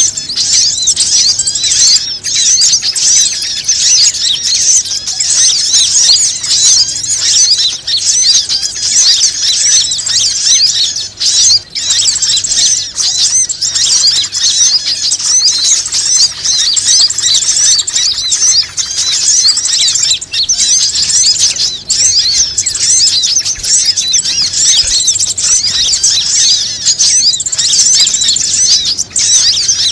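Dense, unbroken chorus of many small birds chirping and twittering rapidly at high pitch, played as a bird-lure (pikat) call to draw other birds in.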